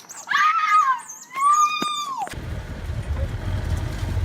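A loud, high-pitched wailing cry lasting about two seconds, dipping in pitch partway through and falling away at the end. It then cuts off abruptly to wind buffeting the microphone.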